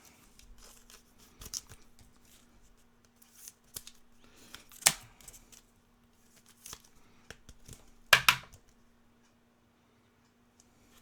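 Trading cards being handled: short slides, scrapes and clicks of card stock against card stock, with a sharp click about five seconds in and a louder rustle about eight seconds in. A faint steady hum runs underneath.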